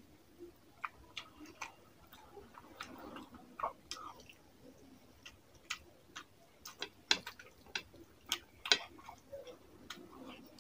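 Close-miked mouth sounds of eating rice and fish curry by hand: wet lip smacks and sharp clicks of chewing, irregular, coming thicker and louder in the second half.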